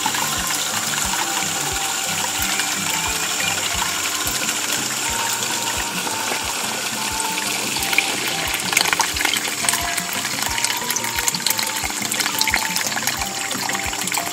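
Water gushing and splashing from a small DIY water pump, over background music with a steady beat.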